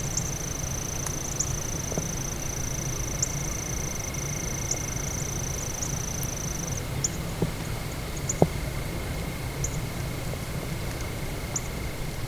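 Quiet outdoor ambience: a steady low rumble under a thin, high, steady tone that cuts off suddenly about seven seconds in, a fainter high tone throughout, and scattered faint ticks and clicks.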